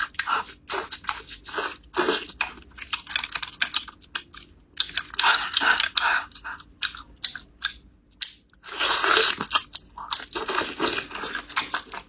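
Close-miked eating sounds: chewing with many short wet clicks and smacks, with louder stretches about five seconds in and again around nine seconds.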